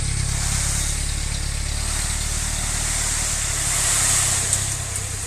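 Dump truck's diesel engine running steadily, with a loud hiss over it that gets a little louder about four seconds in.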